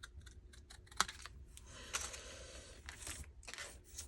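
Paper labels and card being handled on a work table: light rustling and sliding of paper with small clicks and taps, one sharper click about a second in.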